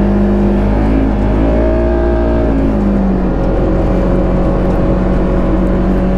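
Polaris RZR side-by-side engine running under way. Its note dips about a second in, climbs back up, then holds steady over a constant low rumble.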